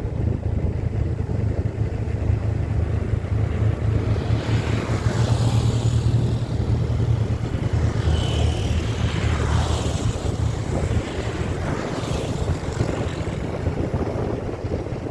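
Steady low wind rumble on the microphone mixed with vehicle and road noise. Faint sweeping sounds come through in the middle.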